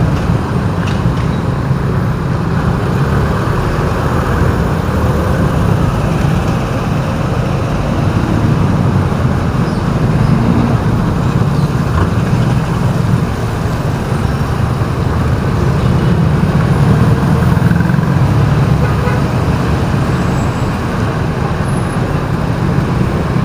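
Steady road traffic noise heard while driving: a continuous low engine and road rumble with other vehicles around.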